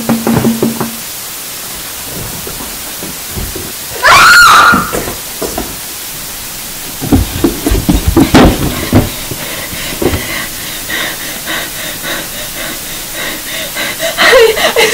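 A woman screams once, loudly and briefly, about four seconds in, followed by several heavy thuds; near the end she is crying.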